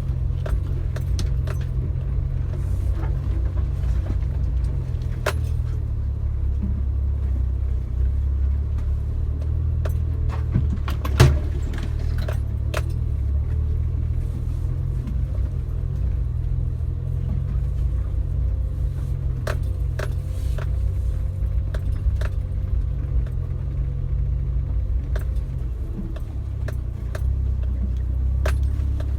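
Suzuki Jimny running steadily at low speed off-road, a constant low rumble with scattered light clicks and rattles over it and one louder knock about eleven seconds in.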